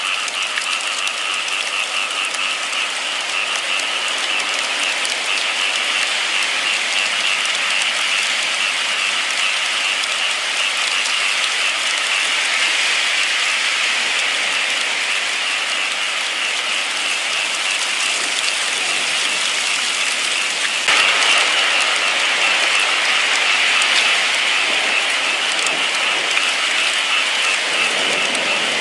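Steady rain falling, an even hiss that steps up a little in loudness about 21 seconds in.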